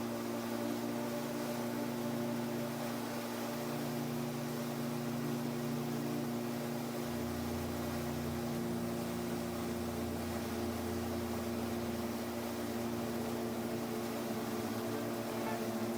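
Kallithea gyroplane's engine and propeller droning steadily in cruise flight, a constant hum with a low note that shifts about seven seconds in.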